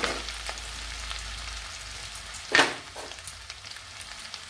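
Chopped garlic, green chilli and ginger sizzling in shallow hot oil in a nonstick kadai, with fine crackling from the spitting oil. A steel spatula scrapes against the pan sharply once about two and a half seconds in, the loudest sound, and more lightly just after.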